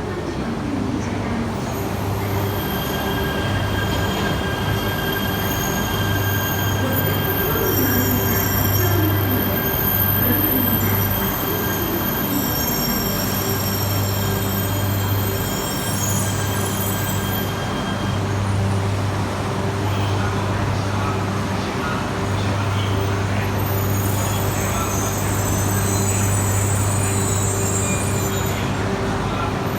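Yamagata Shinkansen E3 series train running slowly into the station, with squealing and a steady high-pitched whine through about the first half that stops near the middle. An abnormal noise was coming from its pantograph.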